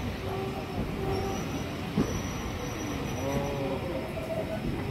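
A train hauled by LMS 4F steam locomotive 43924, heard from on board while it runs along the line: a steady running rumble with faint drawn-out tones coming and going.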